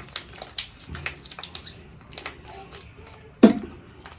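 Small handling noises, light clicks and rustles, then one sharp knock about three and a half seconds in.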